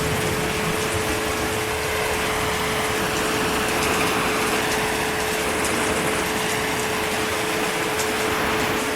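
Heavy rain falling steadily, an even hiss of water with a faint steady hum beneath it.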